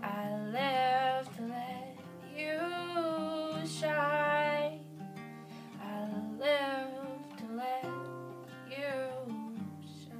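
Music: a voice sings long, sliding notes in four phrases over a strummed acoustic guitar.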